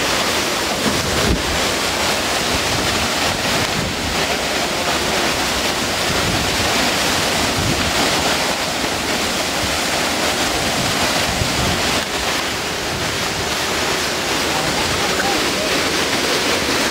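Strong thunderstorm winds making a loud, steady rush of noise, buffeting the microphone.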